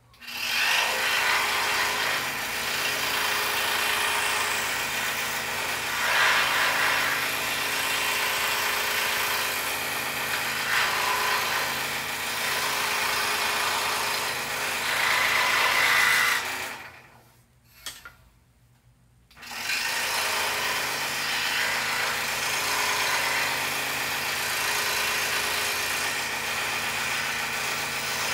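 Scroll saw running and cutting a poplar board: a steady motor hum under a rasping cutting noise that swells and eases as the blade works. Past the halfway point it drops out for about two seconds, with a single click in the gap, then starts again.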